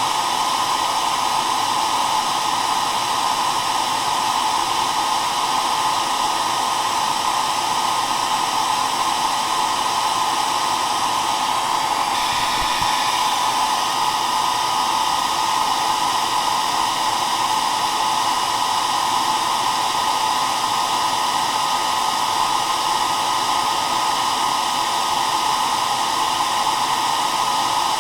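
Hair dryer running continuously: a steady, even blowing whoosh with a hum around its motor pitch, unchanging throughout.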